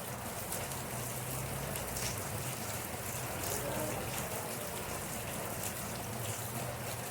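Steady rainfall, with single drops striking close by here and there, and a faint low hum rising and falling underneath.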